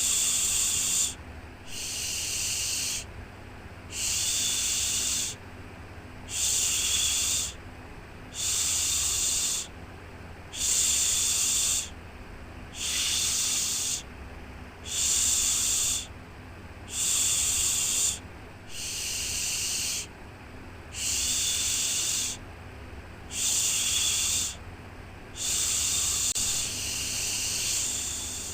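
A rhythmic 'shhh' shushing sound for soothing a baby: a hissing shush about a second long, repeated roughly every two seconds with short pauses between.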